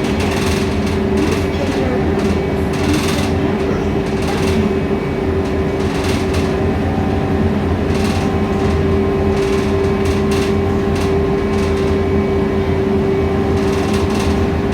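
Scania K320iA CNG city bus engine running with a steady drone and a held hum, heard inside the passenger cabin, with short rattles coming and going over it.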